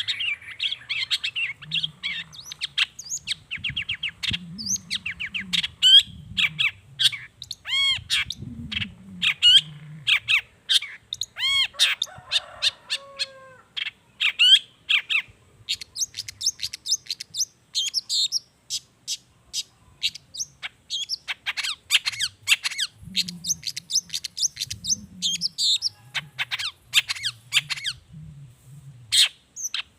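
Long-tailed shrike (cendet) singing a fast, varied song of chirps, trills and swooping notes, packed with mimicked calls of other birds.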